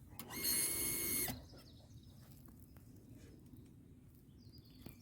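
A brief, high-pitched whine of a small motor, about a second long, starting just after the beginning; otherwise faint background.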